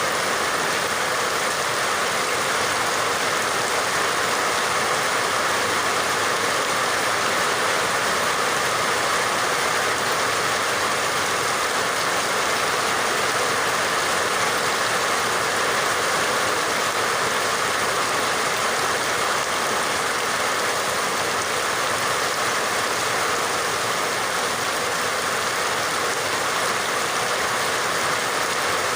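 Steady rain, an even unbroken hiss with no single drops or other events standing out.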